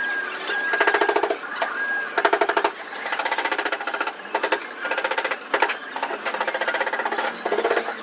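Repeated short bursts of very rapid mechanical hammering from a power tool, each burst under a second, with brief pauses between them.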